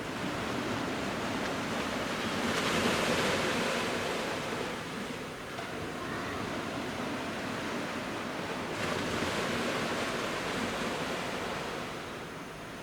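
Surf of the Genkai Sea washing onto the beach in a steady rush. Two waves break more loudly, one about two and a half seconds in and another about nine seconds in.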